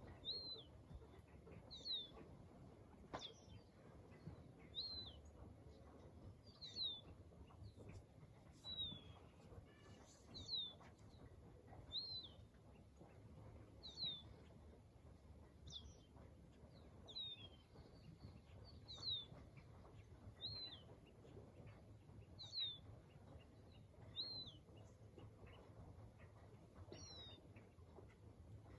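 A bird repeating a short, high call, a single falling note about every one and a half to two seconds, over a faint low background rumble.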